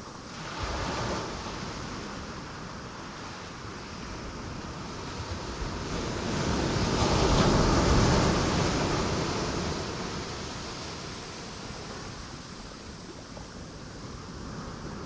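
Ocean waves breaking on rocks: a small surge just after the start, then a bigger wave that builds to its loudest about eight seconds in and slowly washes back.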